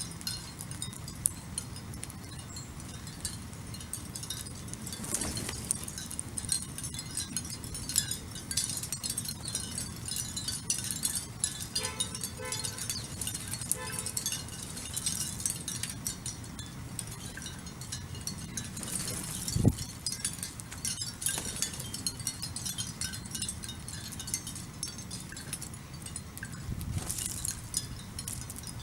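Small backyard birds chirping, many short, high chirps and tinkling notes overlapping throughout, with a brief falling low whoosh about twenty seconds in.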